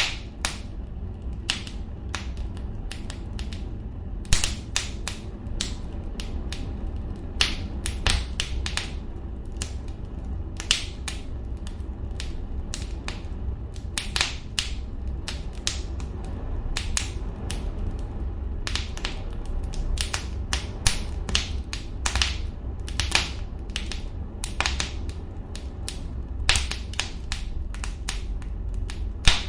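Gas fireplace burning with a steady low rumble, with irregular sharp ticks and pops, roughly one or two a second.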